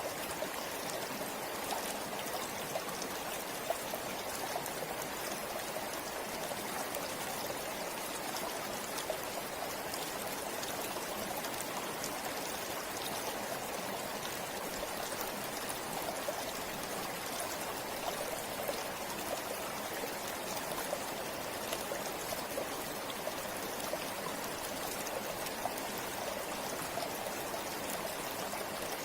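River water flowing over rocks: a steady rushing and babbling with small splashes and trickles scattered through it.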